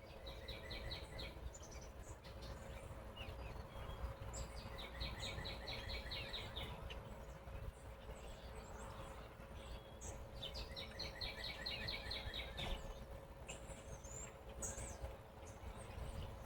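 A bird singing outdoors: three phrases of rapid repeated notes, each lasting one to two seconds and coming about five seconds apart, with scattered higher chirps between. A steady low hum and rumble runs underneath.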